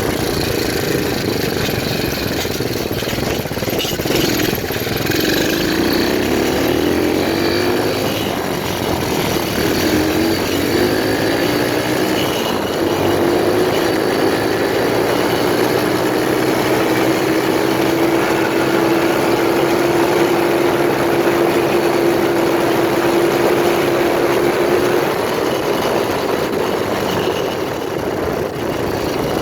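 125cc pit bike engine running under way: the revs climb in several steps over the first dozen seconds, hold at a steady high pitch, then ease off about 25 seconds in.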